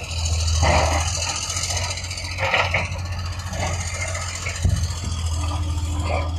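A heavy construction machine's engine running with a steady low hum, with a few short bursts of scraping or clanking noise from the work.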